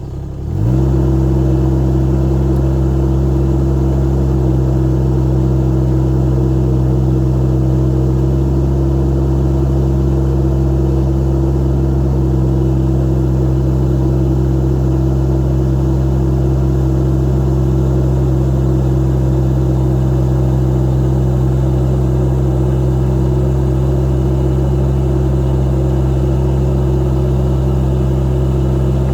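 Mini excavator's Kubota D902 three-cylinder diesel engine rising in speed just after starting, then running steadily.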